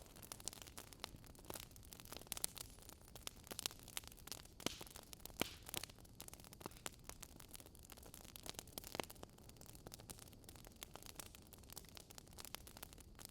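Campfire crackling: soft, irregular pops and snaps of burning wood, several a second, over a faint steady hiss.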